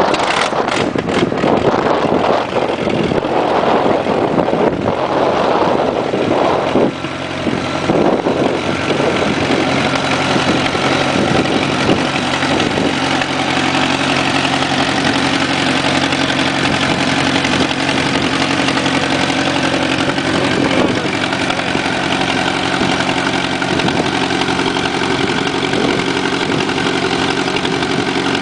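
Tractor engine just started on choke, running unevenly and surging for the first several seconds, then settling into a steady idle.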